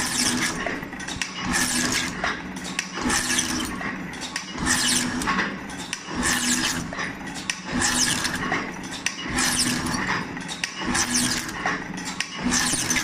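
A factory machine working in a steady repeating cycle: a burst of high-pitched clatter about every second and a half over a constant low hum.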